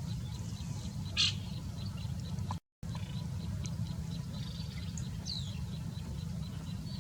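A bird gives one short, loud, high chirp about a second in, then a few faint chirps, one sliding down in pitch. A steady low rumble runs underneath, and the sound cuts out for a moment near the middle.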